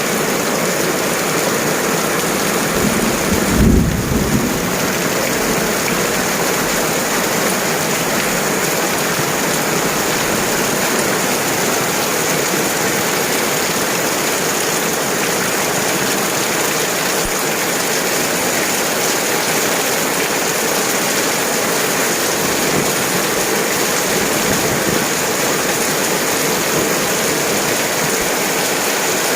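Heavy rain falling steadily, with a short low rumble about three to four seconds in.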